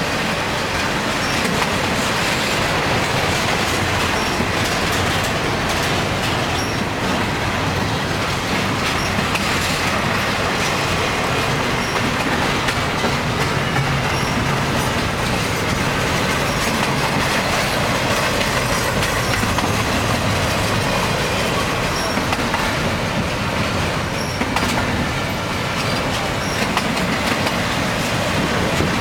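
Freight train cars rolling past at steady speed, a continuous rumble with the rattle and clatter of wheels on the rails.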